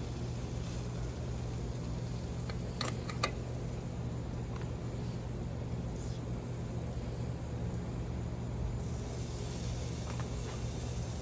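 A steady low rumble with a few light clicks about three seconds in. Near the end a hissing sizzle starts: pork bacon beginning to fry.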